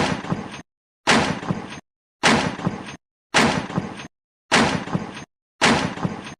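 Weapon sound effect: a sharp hit that dies away raggedly over most of a second, played six times in a row about once a second, each time the same, with dead silence between.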